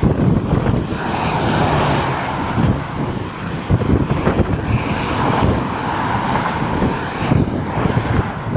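Wind buffeting the microphone in gusts, over a steady rushing noise that swells about a second in, again around the middle and near the end.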